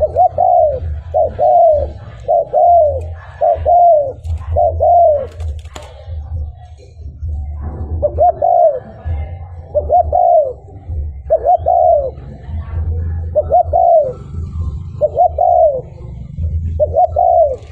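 Spotted dove cooing its repeated territorial call in two runs of short arched coos, with a pause of about two seconds between the runs, over a steady low hum.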